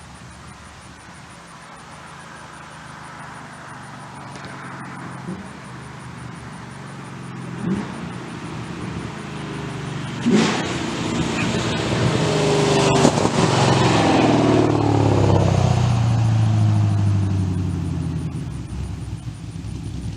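Pontiac GTO's V8 with Trick Flow cylinder heads and a Borla exhaust accelerating hard, the exhaust note climbing in pitch with sharp breaks about eight and ten seconds in. It grows louder to a peak about thirteen seconds in, then fades away.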